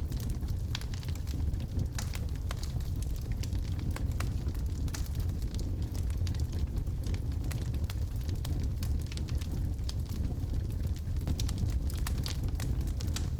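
Wood logs burning in a fireplace: a steady low rumble of the flames with frequent irregular sharp crackles and pops.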